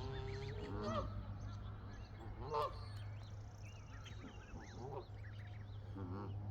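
Waterfowl calling: one drawn-out call near the start, then many short, high peeping calls from ducklings, over a steady low hum.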